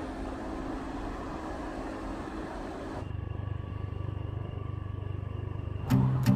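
Motorbike running, its engine under a steady rush of noise, which cuts off abruptly about halfway and gives way to a steady low hum. Strummed guitar music starts near the end.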